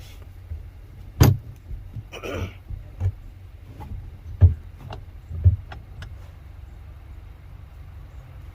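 Jumper cables being handled and checked at a truck battery: a few sharp metallic clanks and knocks with lighter ticks and a brief rustle, over a steady low rumble.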